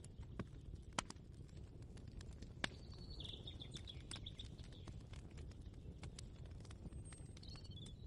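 Ambient kitchen soundscape: a low steady rumble with scattered, irregular sharp clicks. A bird chirps in a quick run of notes about three seconds in, and again briefly near the end.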